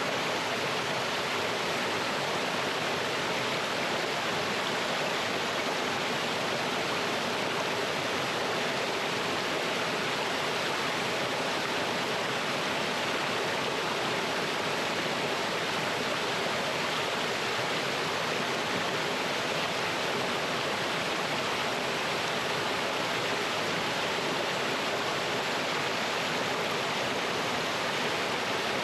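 Mountain stream pouring over rocks in a small waterfall: a steady, even rush of water that does not change.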